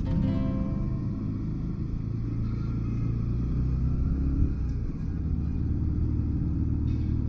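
Motorcycle engine running at low speed, a steady low rumble. A short pitched tone sounds in the first second.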